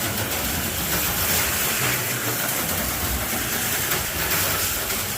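HO-scale slot cars running laps on a plastic slot track, their small electric motors whirring steadily.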